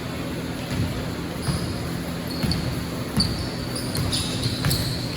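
Basketball bouncing on a gym floor, a dull thump roughly every second, with short high squeaks from shoes on the court in the second half.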